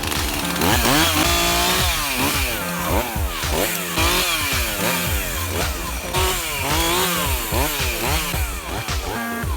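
Chainsaw revving up and down over and over, about two sweeps a second, with background music.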